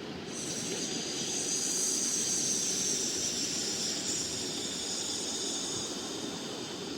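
A long, drawn-out 'shhh' breathed out on the exhale, the qigong healing sound of the liver, starting suddenly and held for about six seconds before fading out.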